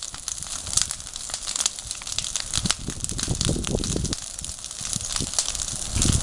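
Wood campfire crackling, with many sharp irregular pops and snaps over a fluctuating low rumble.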